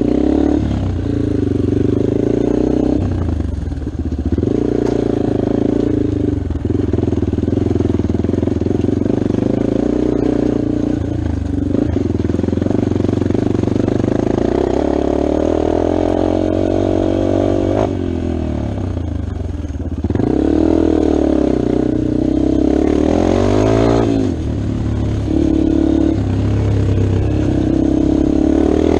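Dirt bike engine running under throttle, its pitch repeatedly rising and falling as it is revved and eased off, with several sweeping climbs and drops in the second half.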